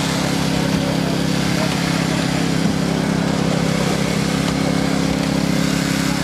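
A fire engine's motor running steadily at a constant pitch, a low unchanging hum.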